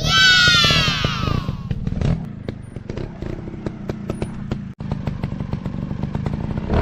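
Off-road dirt bike engine revving high, then falling in pitch over the first second and a half and settling into a lower running note, with frequent knocks and clatter.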